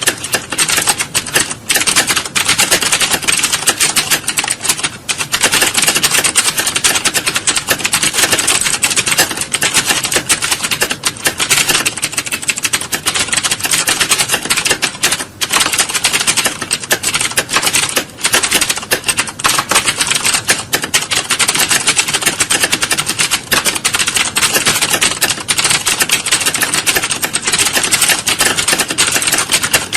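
Many computer keyboards being typed on at once: a dense, unbroken clatter of keystrokes, as in a typing-test exam hall.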